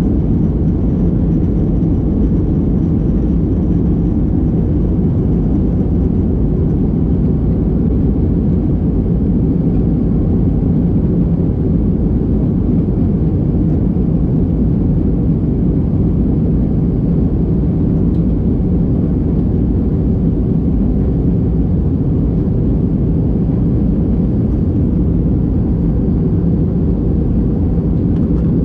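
Steady jet airliner cabin noise: an even low rumble of the engines and rushing air, heard from inside the passenger cabin, with no change in level.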